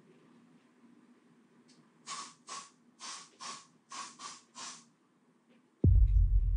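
Aerosol spray can hissing in about eight short sprays in quick succession. Near the end a sudden deep low rumble comes in.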